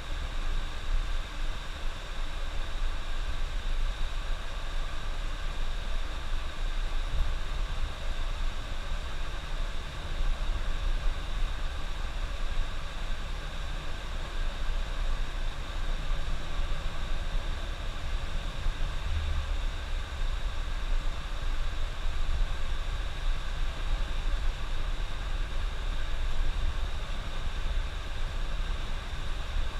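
Coach bus driving on the highway: a steady low engine and road rumble with an even hiss over it.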